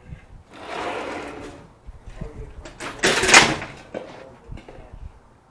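Crashing and scraping noises of heavy objects being handled on a balcony: a rough swell about a second long, then a louder, sharper crash about three seconds in, with smaller knocks in between.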